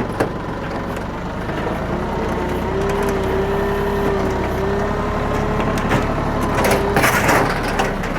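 Bad Boy 4025H compact tractor's engine running under load as the loader works, with a steady whine coming in about two seconds in. A short burst of harsh noise comes near the end.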